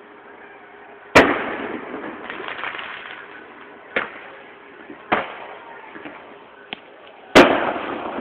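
Aerial fireworks bursting: a loud boom about a second in and another near the end, each with a long rolling echo, and a few smaller pops between them. The booms echo off a nearby hill.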